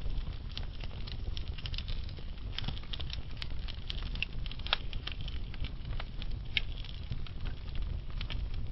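Burning logs crackling and popping in a fireplace, with irregular sharp snaps over the low, steady rumble of the flames; the loudest pops come just before the midpoint and about two-thirds of the way through.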